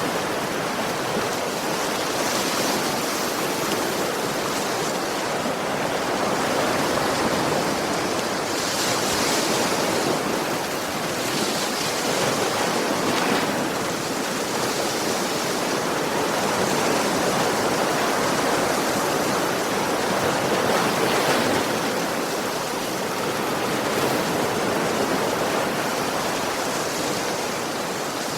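Ocean waves breaking and washing on a beach, a steady rush of surf that swells and eases every few seconds.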